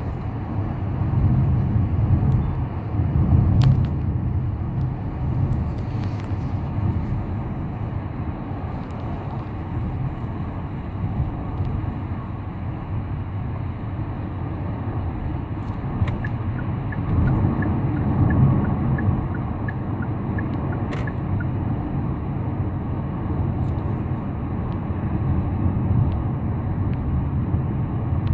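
A car driving on the road: a steady low rumble of tyres and engine that swells a little twice. A short run of quick, faint high pips comes about two-thirds of the way through.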